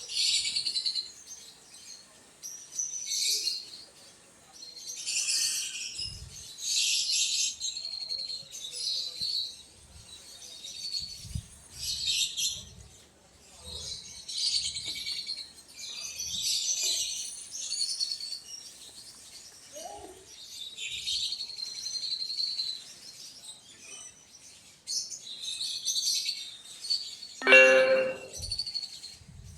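Birds chirping in repeated high bursts every second or two, with a few soft low thumps; near the end, a short, louder, lower-pitched call stands out.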